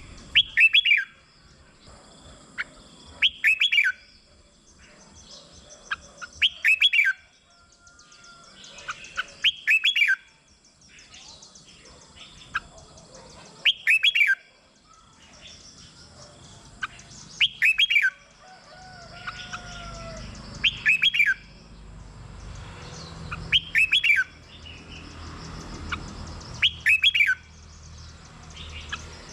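Red-whiskered bulbul singing short, loud song phrases, about nine of them, one every three seconds or so, with faint chirps in between.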